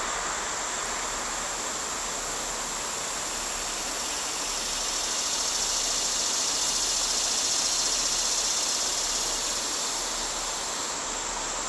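Steady, high-pitched insect chorus, swelling for a few seconds mid-way and easing near the end, over a broad hiss.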